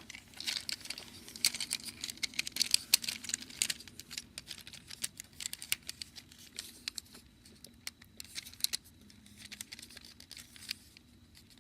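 Plastic action-figure parts being handled: a run of small clicks, taps and rattles, busiest in the first few seconds, then scattered.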